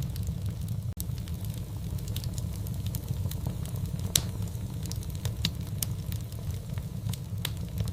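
Fireplace fire crackling over a steady low rumble of flame, with scattered sharp pops, the loudest about four seconds in.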